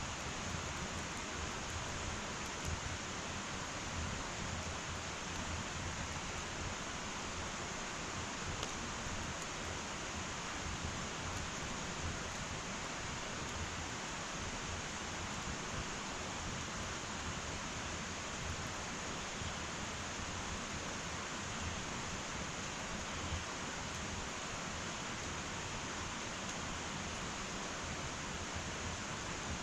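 Wood fire burning in an irori hearth: a steady hiss with a few faint crackles.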